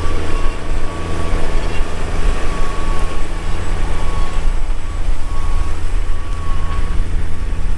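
Farm tractor's engine running steadily under load while pulling a disc through muddy soybean stubble, a constant low drone with a thin steady whine above it.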